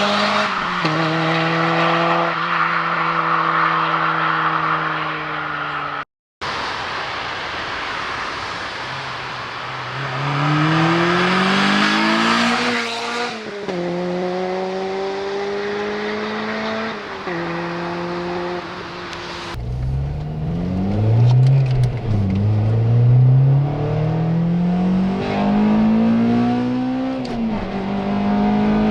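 Honda Civic Type R EP3's four-cylinder engine heard through a Megan Racing aftermarket exhaust muffler, revving and accelerating, its pitch climbing and dropping in several runs up the revs. The sound cuts out briefly about six seconds in. In the last third it is deeper and fuller, with repeated rising pulls broken by short drops in pitch.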